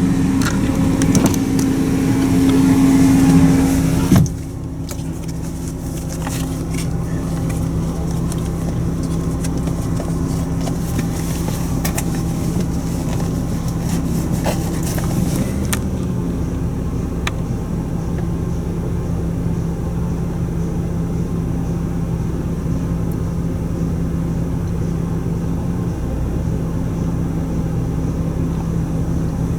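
Car idling, heard from inside the cabin: a steady low hum with a constant tone. A louder, noisier stretch of outside sound drops away suddenly about four seconds in.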